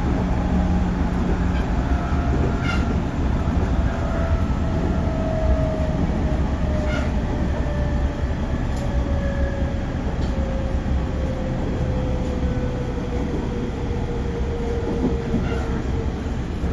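JR Central 311 series electric train running, heard from inside a car: a steady rumble of wheels on rail with a few short clicks, and a faint whine that slowly falls in pitch.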